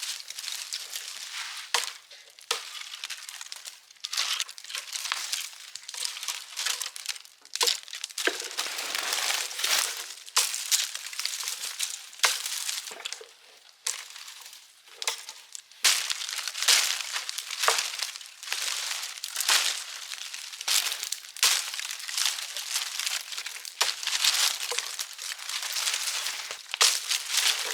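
Fire of scrap wood burning, crackling and snapping continuously in dense irregular pops.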